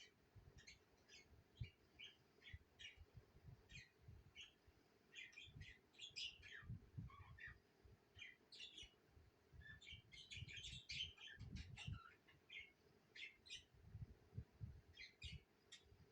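A flock of budgerigars chirping and chattering, a busy stream of short high chirps.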